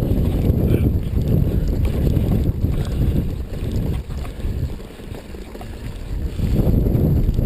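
Wind buffeting the microphone of a mountain biker's on-board camera while riding, a rough low rumble that eases off about five seconds in and builds again near the end.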